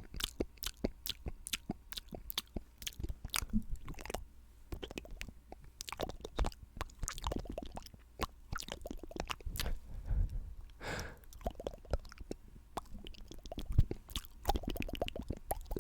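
Close-miked wet mouth sounds for ASMR spit painting: a dense, irregular run of saliva clicks and smacks, with a longer soft rustle of the brush about ten seconds in.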